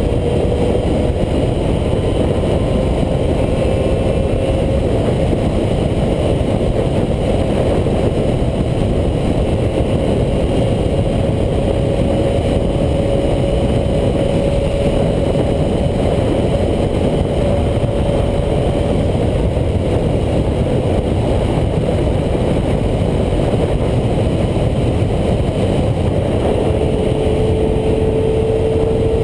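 A Honda CBR250RR MC19's 250cc inline-four running at high revs under full throttle, with loud wind rush over the microphone. The engine note drifts slowly in pitch, then near the end comes back lower and climbs.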